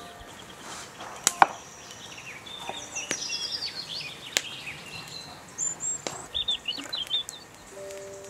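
Birds chirping and twittering, with a few sharp knocks of a kitchen knife cutting red cabbage on a wooden cutting board, the loudest two in quick succession about a second in.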